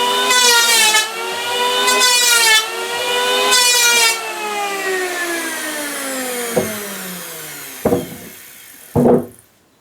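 Electric power tool cutting wood in short passes, its motor pitch sagging with each cut. Near the middle it is switched off and its whine slides down over about three seconds. Three sharp wooden knocks come near the end.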